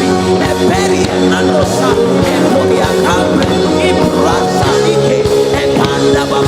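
Live worship band music with singing: sustained keyboard or instrument tones under a voice, with drums keeping a steady beat.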